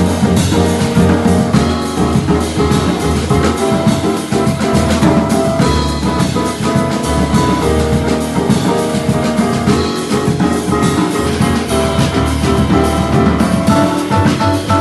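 Live jazz trio playing: drum kit with busy cymbal work, piano and bass together.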